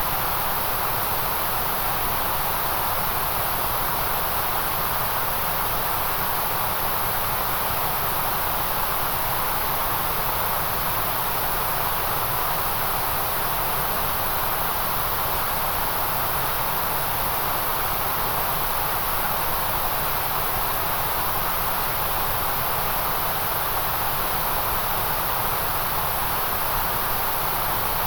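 White-noise track: an even, unchanging hiss with no breaks or events.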